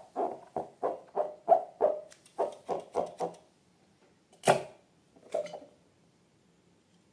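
Rubber balloon squeaking in quick regular strokes, about three a second, then one louder, sharper squeak or squelch and a smaller one after a pause.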